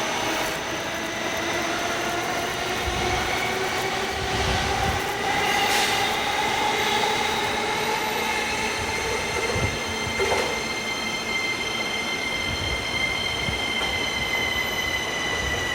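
JR E233-1000 series electric train pulling out, its traction motors giving several whining tones that slowly rise in pitch as it gathers speed, over wheel-on-rail rumble.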